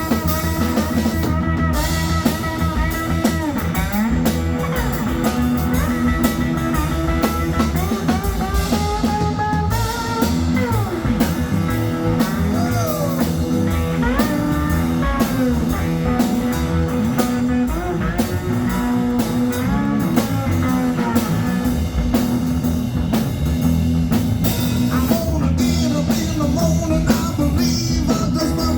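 Cigar box guitar playing an instrumental blues break, its notes sliding up and down in pitch, with drums keeping a beat behind it.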